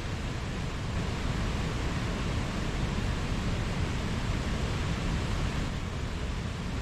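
Mountain stream water rushing and splashing over rocks, a steady full rush of running water.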